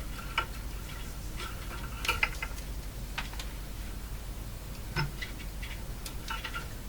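Scattered small clicks and knocks of hands working a tube radio's push-button assembly loose, over a steady low hum.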